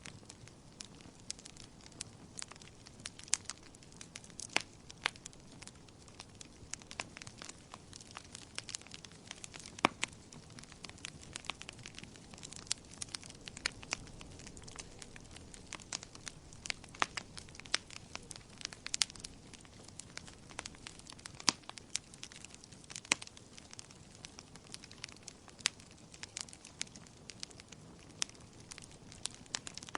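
Wood fire burning in a fireplace: irregular sharp crackles and pops of burning logs over a low, steady hiss.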